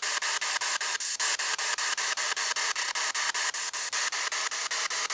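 SB7 spirit box sweeping through radio stations: a steady rush of radio static chopped into short pieces about eight times a second, with faint fragments of tone.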